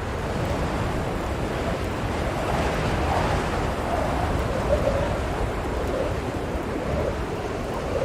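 Blizzard wind blowing steadily, with gusts that make its pitch waver up and down.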